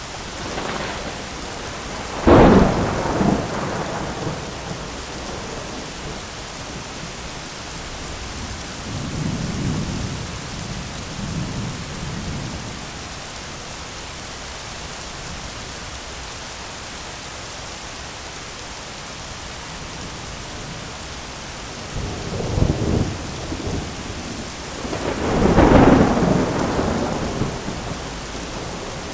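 Thunderstorm: steady rain hiss, with a sharp thunder crack a couple of seconds in, softer rumbles near the middle, and another crack that builds into a long, loud peal of thunder near the end.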